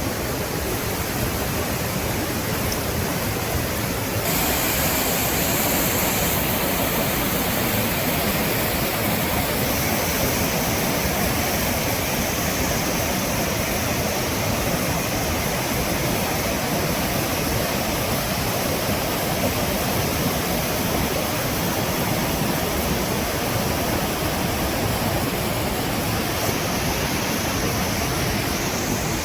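Steady rush of river water falling over a waterfall, a loud even roar that gets brighter and a little louder about four seconds in.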